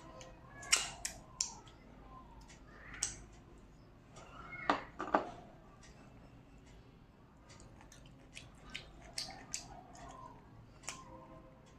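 Close-up eating sounds of someone chewing rice and curry: scattered wet smacks and clicks, with a cluster of louder ones near the start and two sharp ones about five seconds in.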